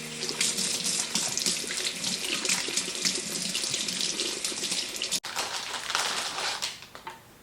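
Tap running water into a sink, a steady splashing stream, briefly broken about five seconds in and tailing off near the end.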